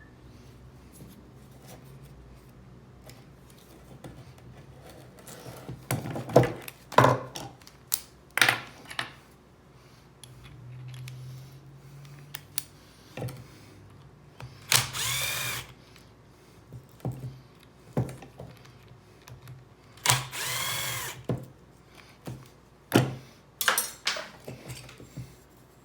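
A power drill run in two short bursts of about a second each, its pitch rising and falling, with clanks and knocks of metal parts being handled between them.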